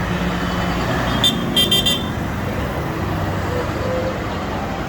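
A vehicle horn toots once, then three more times in quick succession, about a second in, over the steady running of tractor engines.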